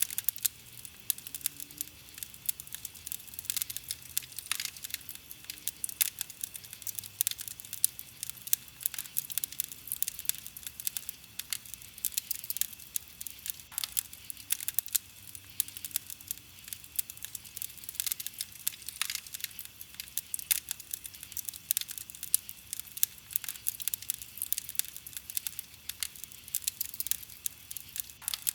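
Wood campfire crackling: a dense, irregular run of small snaps and pops, with a louder pop standing out now and then.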